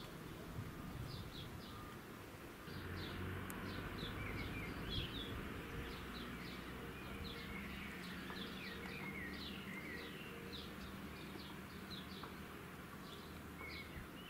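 Small birds chirping: short, high calls repeated every second or so, over a faint low outdoor rumble.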